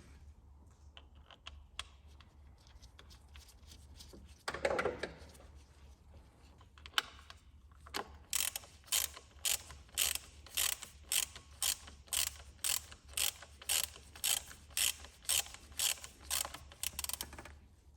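Ratchet wrench clicking in short strokes, about two a second, as a bolt is run back in after a few scattered light clicks and a brief noise.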